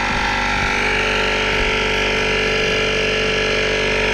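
Air compressor running steadily with a loud, even mechanical drone and hiss.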